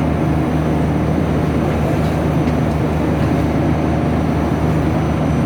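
Pallet stretch-wrapping machine running with a steady low mechanical hum.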